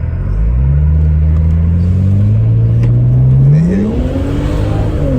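BMW 335i's twin-turbo straight-six accelerating hard, its note climbing steadily and then more steeply, with a sudden drop in pitch at the very end as it shifts up.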